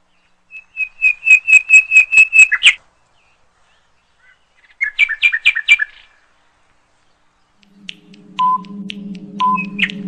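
Bird chirping: a quick run of about nine chirps, then a shorter burst of chirps a few seconds later. Near the end a low steady hum comes in with a short quiz-countdown beep about once a second, under more chirps.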